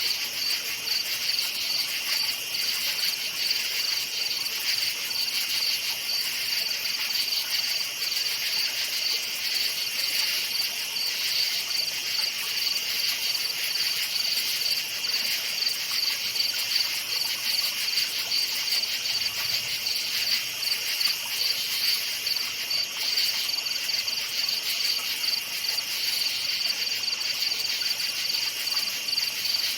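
A chorus of crickets chirping steadily at night, a rapid high-pitched trill that never lets up.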